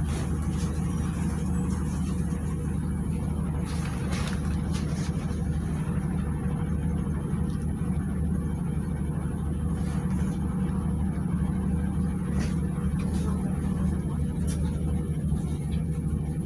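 PAZ 320402-05 city bus running along the road, heard from inside the cabin: a steady low engine drone with road noise and a few faint clicks of rattling.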